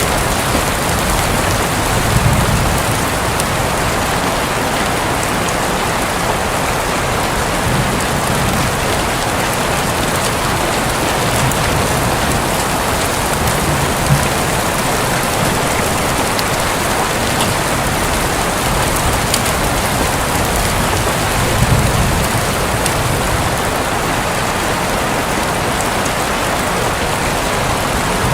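Steady heavy rain pattering on a roof, an even hiss of drops, with a few low rumbles of thunder swelling briefly underneath.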